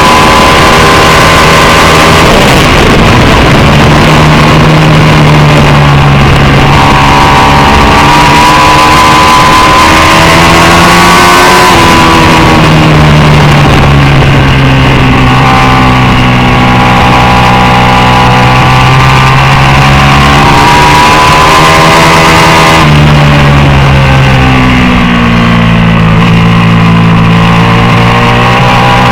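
750cc superbike engine running hard at racing speed. Its note climbs slowly through the revs, then drops sharply twice, about twelve and twenty-three seconds in, over a steady rush of wind and road noise.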